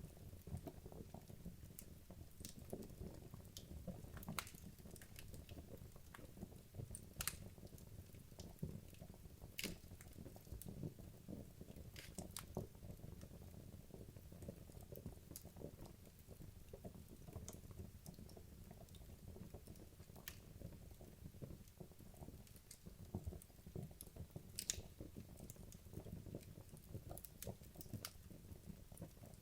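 Wood logs burning in a fireplace: a low, steady rustle of flames with frequent soft pops and scattered sharp crackles, about one every two or three seconds.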